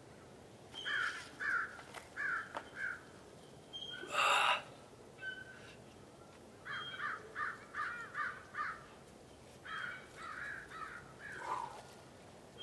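Bird calls in quick runs of four to six, with a short loud noise a little after the first run.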